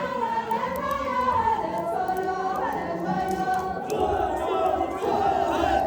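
A crowd of people singing together in unison, many voices at once over a background of crowd noise.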